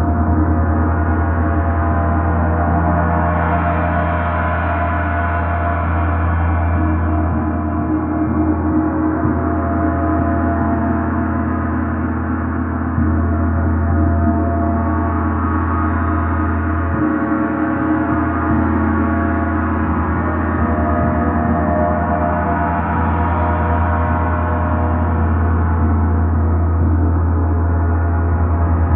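A gong sounding continuously in a sound bath, a deep steady hum under a dense layer of overtones that swell and ebb slowly, with no distinct strikes.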